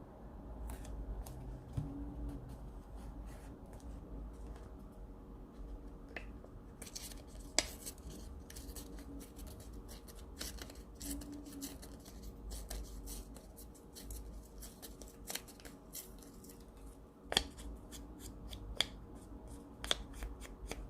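Scissors snipping paper and masking tape, with paper rustling: a run of short crisp clicks and snips, a few of them louder near the end, over a faint steady hum.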